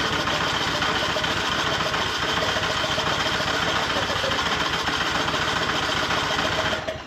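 An engine running steadily with a fast, even beat, cut off abruptly at the end.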